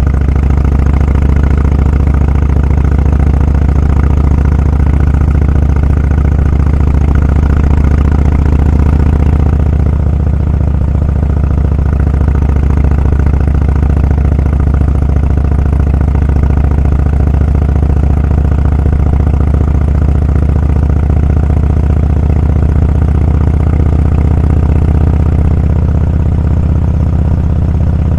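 Motorcycle engine running at a steady cruise, a loud, even, low drone that eases slightly about ten seconds in.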